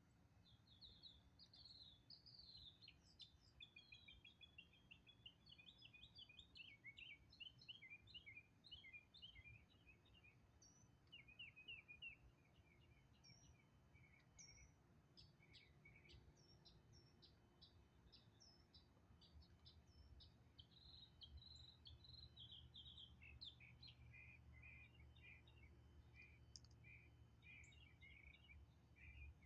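Faint birdsong: small birds chirping in quick runs of short high notes, over a low steady background rumble.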